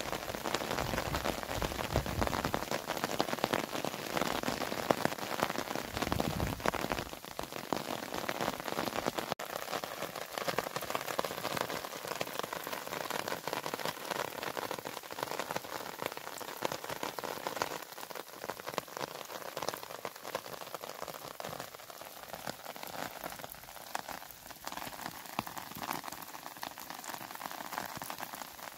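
Steady rain falling, a dense patter of drops, louder in the first several seconds and then settling to an even level.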